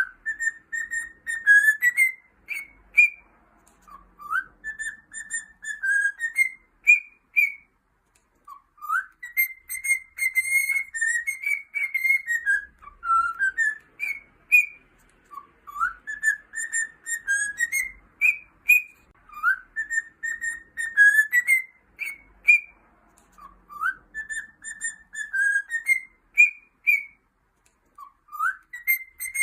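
Cockatiel whistling a tune: a phrase of clear whistled notes that opens with a rising swoop, holds steady, then ends on a few short higher notes, sung over and over with brief pauses between.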